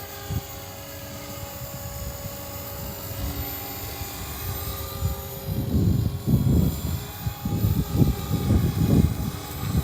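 Small electric RC helicopter (Walkera V450D03) hovering, its motor and rotor giving a steady whine. About halfway through, wind gusts buffet the microphone with loud low rumbles that become the loudest sound.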